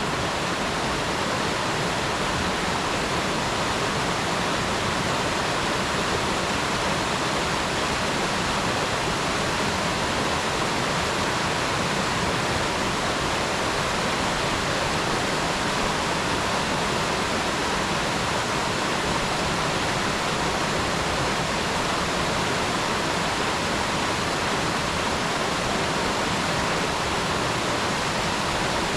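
Mountain stream running: a steady, even rush of water with nothing else standing out.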